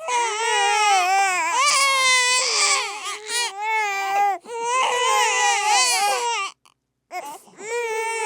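Babies crying at once, loud wailing cries that rise and fall in pitch and overlap one another. There is a short break of silence late on before the crying resumes.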